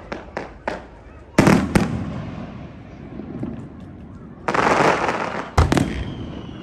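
Aerial fireworks bursting: a few sharp cracks, then two loud bangs about a second and a half in, a roughly one-second crackling hiss a little after the middle, and another sharp bang just after it. Near the end a faint high whistle begins, sliding slowly down in pitch.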